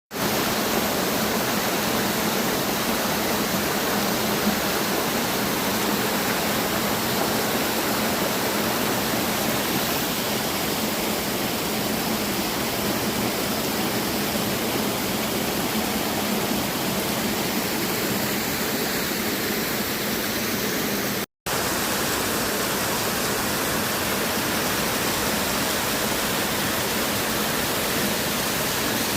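Su-Uchkhan waterfall: falling water making a steady rushing noise, broken once by a split-second gap about two-thirds of the way through.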